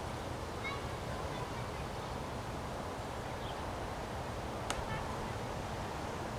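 Windstorm gusting steadily over the microphone with a low rumble, with a few faint short calls in the background and a single sharp click about three-quarters of the way through.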